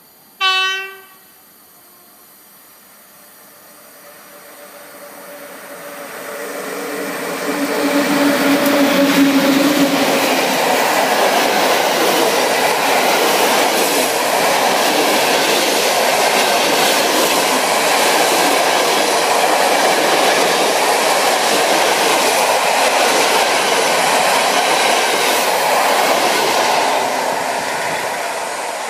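One short train horn blast about half a second in. Then a passenger train on the adjacent track comes on, growing louder over several seconds, and passes close by at speed for about twenty seconds with a steady rush and clatter of its coaches, fading near the end as it pulls away.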